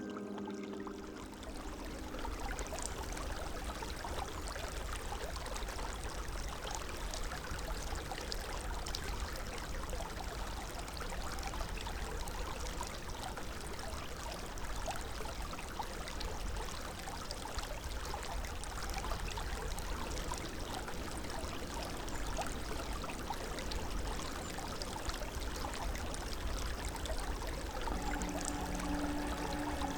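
Creek water flowing, a steady rushing. Music comes in near the end.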